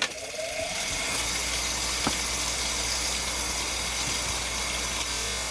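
Electric knife-sharpening machine switched on with a click. Its motor spins up over about the first second, then runs with a steady hum and hiss, not yet grinding a blade. There is a single tick about two seconds in.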